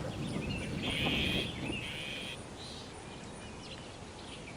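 Outdoor wildlife sounds: a raspy, buzzing call starts about a second in and lasts about a second and a half, with scattered short, faint chirps. The sounds grow quieter after the buzz ends.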